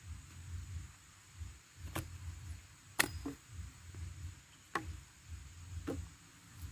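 Irregular sharp knocks and clicks, about six of them, the loudest about three seconds in, over a low rumble.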